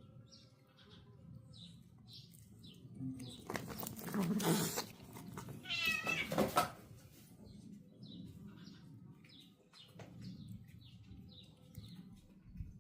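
Two cats yowling and meowing at each other in a standoff before a fight. There are two loud drawn-out yowls, around four and six seconds in, with quieter growling meows between them.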